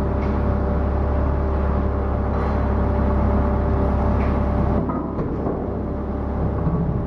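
Ship's anchor windlass running as it heaves in the anchor, a steady mechanical hum with a few steady tones. About five seconds in the low hum drops and the running turns slightly rougher.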